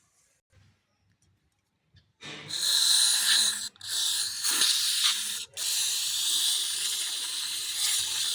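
Aerosol carburettor cleaner spraying onto a dirty throttle body to clean it. It is a loud, steady hiss that starts about two seconds in and breaks off briefly twice.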